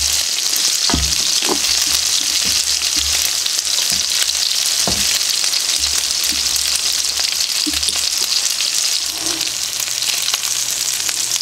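Chicken strips sizzling steadily as they fry in oil in a nonstick skillet. A few light knocks and scrapes come from a fork moving and lifting pieces in the pan, the sharpest about a second in and again near five seconds.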